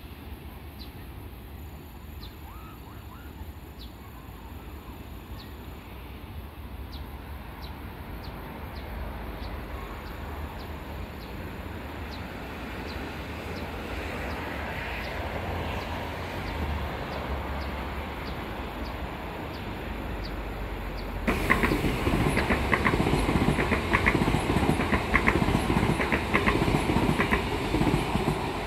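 Electric passenger train on the line: its rumble builds slowly as it comes closer. About three quarters of the way in it suddenly becomes much louder, passing close by with rapid, rhythmic clickety-clack of the wheels over the rail joints.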